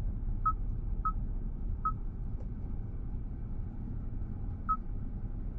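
Short key-press beeps from a car navigation touchscreen as a destination is typed in, four single beeps at the same pitch with uneven gaps, over the low steady hum of the car's cabin.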